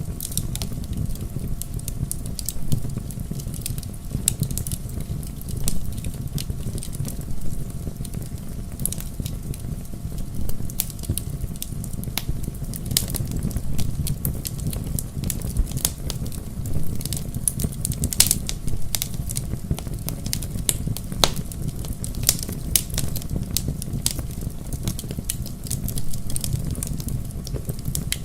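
Bonfire burning, with a steady low roar of flames and frequent sharp pops and crackles from the burning logs throughout.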